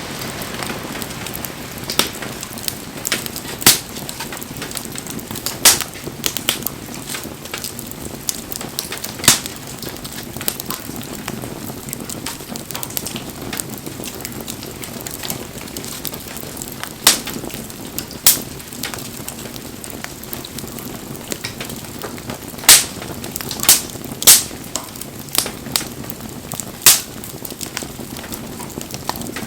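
Wood fire burning with a steady hiss, broken by sharp crackles and pops that come irregularly every second or few, the loudest bunched together near the end.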